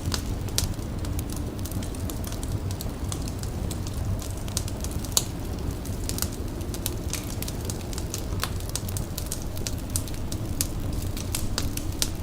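Fire crackling, with frequent irregular sharp pops over a steady low rumble.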